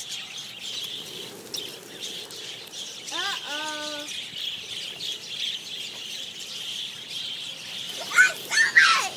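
A flock of budgerigars chattering and warbling without a break, with a short voice about three seconds in and louder, higher voices near the end.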